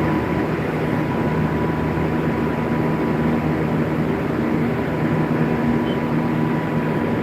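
Blue Star chiller plant running: a steady mechanical hum with several steady tones and a thin high whine over it.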